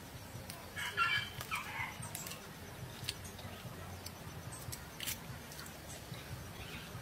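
Chewing and crunching of crispy fried chicken, with a few sharp crunch clicks. A short hen's cluck comes about a second in.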